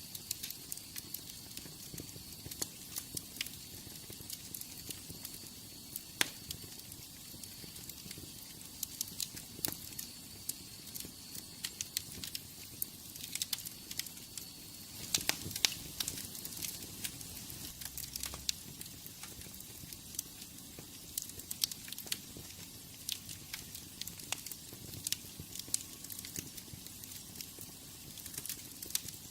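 Wood fire in a fireplace crackling, with frequent irregular sharp pops over a steady soft hiss. A faint thin high whistle runs under it for about the first half.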